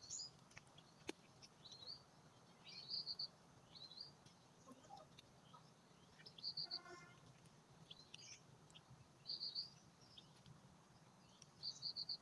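Bird calling: short runs of about five or six quick high notes, repeated four times roughly every three seconds, with fainter scattered chirps in between.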